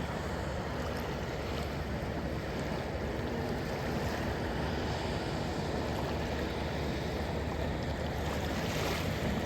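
Waves washing onto the beach, with wind rumbling on the microphone.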